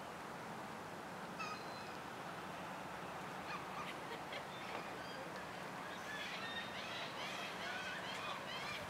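Birds calling over a steady background hiss and low hum: one call about a second and a half in, then a run of short, quick chirping calls from about six seconds on.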